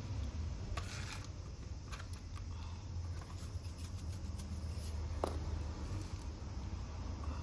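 Soft rustling, scraping and a few light clicks of hands working with succulents and potting soil, over a steady low hum.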